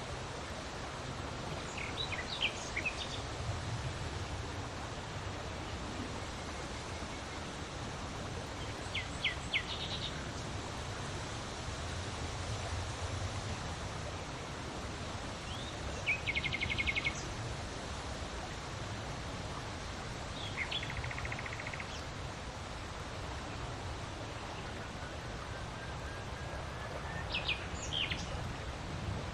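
Steady wind blowing with a low rumble, while birds chirp now and then: five short calls spread through, two of them quick buzzy trills.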